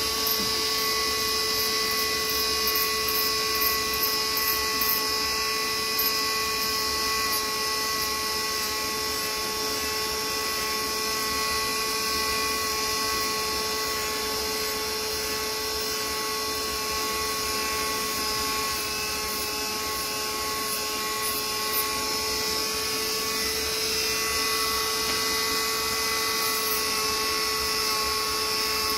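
Electric power tool running steadily with a constant whine, with a few short scratchy contacts in the first several seconds and again about three quarters of the way through.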